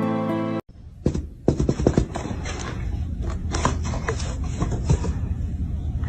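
Plucked-guitar background music that cuts off abruptly under a second in, followed by a run of irregular sharp clicks and knocks over a steady low hum.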